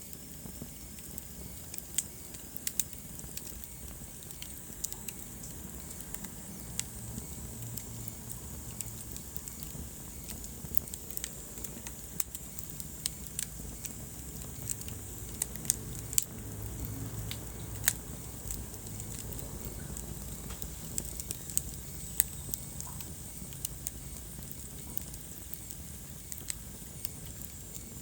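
Wood fire crackling in a fireplace: irregular sharp pops and snaps over a steady hiss and low rumble of the burning logs.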